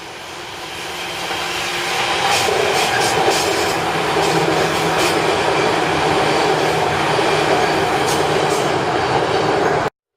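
Electric commuter train approaching and running past at speed, growing louder over the first two seconds. Wheels click over the rail joints as the cars go by. The sound cuts off suddenly near the end.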